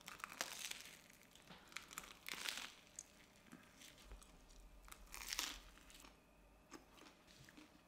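Crusty baguette sandwich being bitten into and chewed, with faint crunches of the bread coming in a few short bursts.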